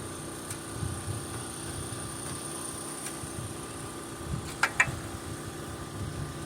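A steady mechanical hum with a low rumble, and two sharp clicks close together near the end.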